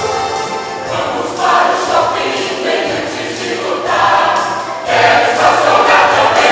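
A choir singing a Christmas song with instrumental accompaniment, the phrases swelling louder towards the end.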